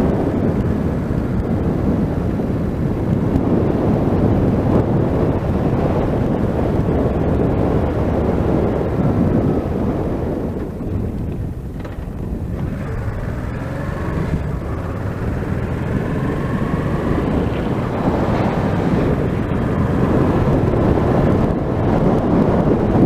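Wind rushing over a helmet-mounted microphone with a motorcycle's engine running underneath as the bike is ridden. The noise eases off a little about halfway through and then builds again.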